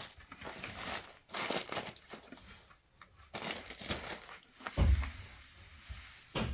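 Irregular crinkling and rustling, as of something being crumpled or handled, with a dull thump about five seconds in and another near the end.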